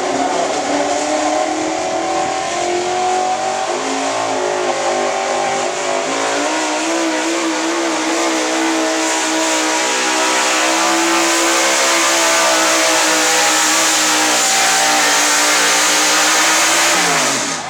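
Hot gas 4x4 pulling truck's gasoline engine at full throttle through a sled pull. The engine note climbs early on, holds high with a slight waver, then falls away near the end as the throttle comes off.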